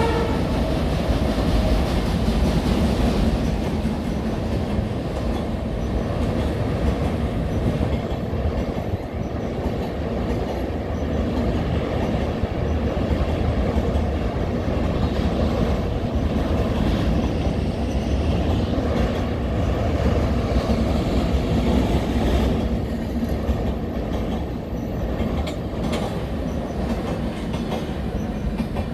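Passenger train coaches rolling steadily across a viaduct: a continuous rumble of wheels on rail, with a few sharp wheel clicks over rail joints.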